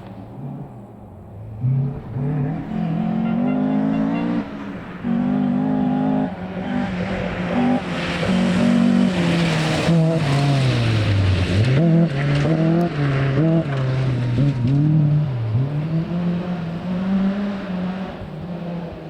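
Rally car engine accelerating in steps through the gears as it approaches, then loud as it goes by with a rushing hiss of tyres and stones. The revs dip twice as it lifts and brakes into the corner, then climb again as it drives away and fades.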